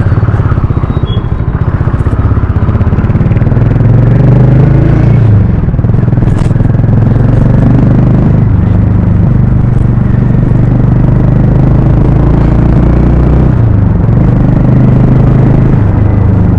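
Harley-Davidson X440's single-cylinder engine and exhaust running loudly under way. The pitch climbs and then drops about a third of the way in, and shifts again near the end, with throttle and gear changes.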